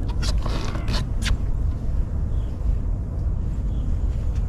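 Steady low rumble of wind buffeting the microphone on an open boat, with a few short clicks in the first second or so.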